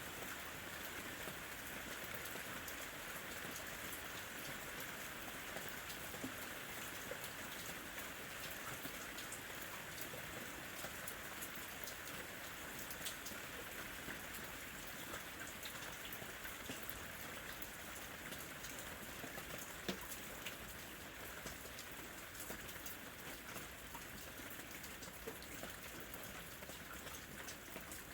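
Steady rain falling, an even hiss with many single drops tapping sharply through it.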